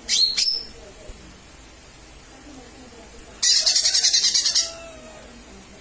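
Cucak ijo mini (leafbird) calling: a short, sharp rising call right at the start, then, about three and a half seconds in, a loud, rapid, harsh chattering trill of about ten notes lasting just over a second.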